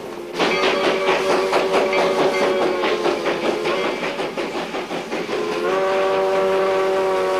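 Steam locomotive whistle blowing a chord, starting suddenly about half a second in, over a rhythmic beat from the running locomotive. It eases off, then sounds again as a long steady blast near the end.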